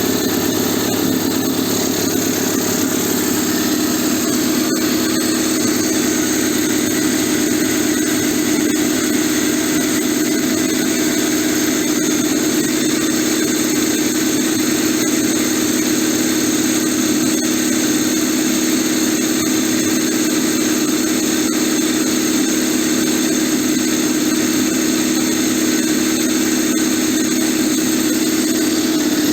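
SO-7B piston compressor, driven by its three-phase electric motor, running steadily with no load and no pressure being built: the freshly rebuilt piston group is being run in.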